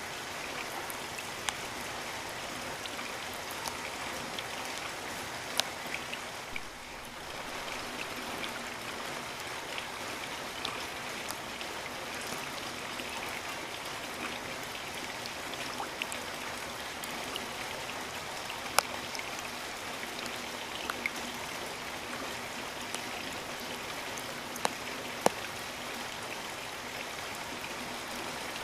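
Steady rain falling, an even hiss with scattered sharp ticks of single drops landing close by. The rain thins briefly about a quarter of the way in.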